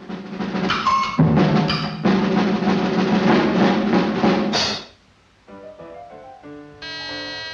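Cartoon orchestral score: a loud, busy passage with drum roll and heavy percussion for about five seconds, which stops suddenly and gives way to a lighter, quieter melody of held notes.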